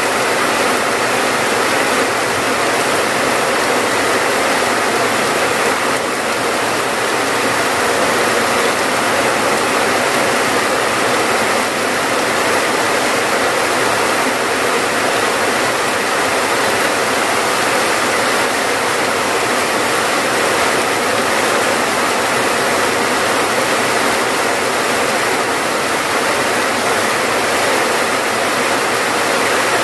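Rain falling steadily: a loud, even hiss of water with no breaks or changes.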